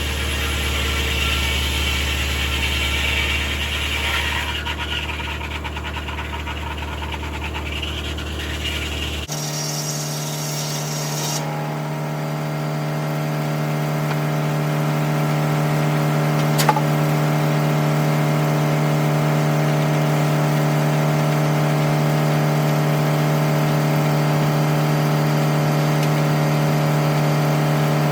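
Tractor engine driving a circular sawmill, running at a steady speed. About nine seconds in the sound changes abruptly to a different, higher steady note, and there is one sharp click a little past the middle.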